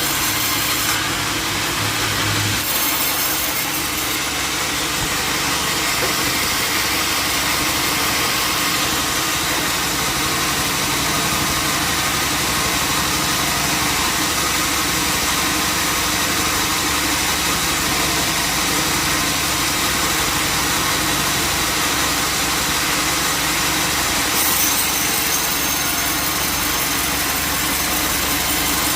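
Sawmill running steadily, its engine going under a constant load with the saw cutting through wood.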